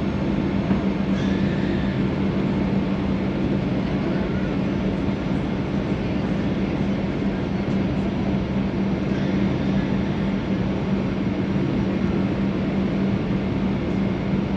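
Steady cabin noise inside a Boeing 737-800: an even rumble of engines and airflow with a constant low hum.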